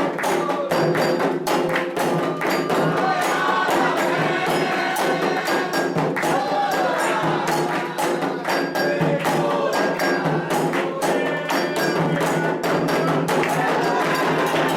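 Candomblé ritual drumming on atabaque hand drums, with quick, dense strokes and a bright bell or shaker keeping time, and voices singing over it.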